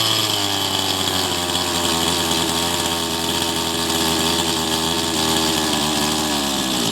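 Small carburetted petrol engine held at raised revs. It sags slightly at first, runs steadily, then drops away near the end. It is running on a cheap new carburetor that cannot be tuned properly.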